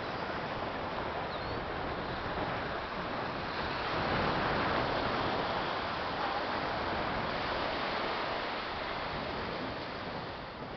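Ocean surf washing on the beach with wind on the microphone, a wave swelling louder about four seconds in and easing off after.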